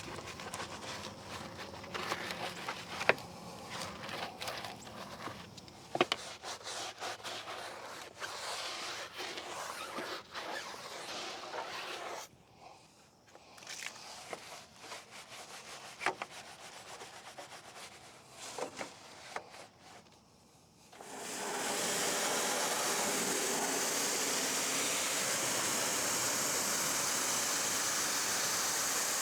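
Stiff brush scrubbing a tire and wheel, a rough rubbing with scattered knocks of the brush against the rim. About twenty seconds in, a pressure washer sprays steadily, a loud even hiss of water rinsing the wheel off.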